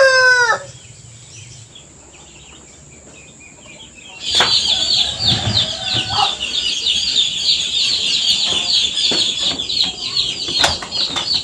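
A rooster's crow trails off at the start. After a quiet spell of about four seconds, birds set up a dense, rapid, high-pitched chirping that carries on, with a few sharp clicks.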